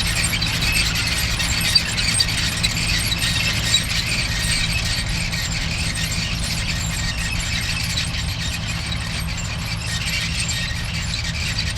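Massey Ferguson tractor engine running steadily under a continuous high squealing and rattling of working mechanical parts, with a few light clicks in the first few seconds.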